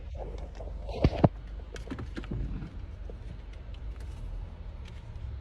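Low steady rumble of a car's cabin with the engine running, with two sharp knocks in quick succession about a second in, and a few faint clicks.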